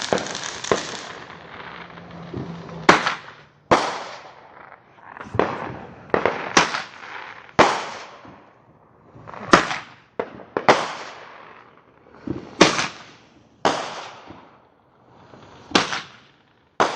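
Fireworks going off: a dense crackle that dies away in the first second, then about a dozen sharp bangs at irregular intervals of one to two seconds, each trailing off in an echo.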